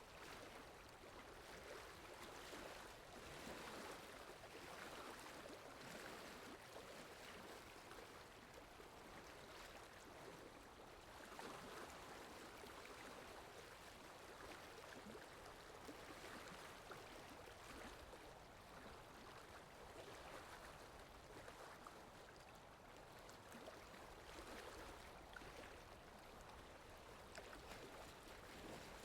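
Faint, steady rain ambience: an even hiss of rainfall that swells and eases gently every couple of seconds.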